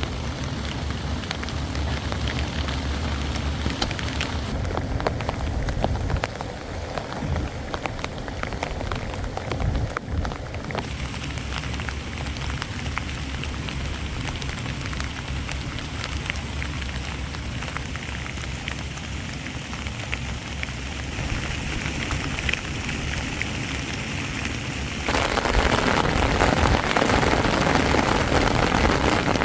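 Heavy rain falling steadily on a tent, with many small drop ticks; near the end it abruptly gets louder.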